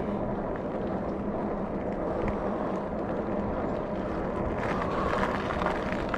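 Steady rush of wind over the microphone and road noise while riding a Rad Rover electric fat-tire bike along a street.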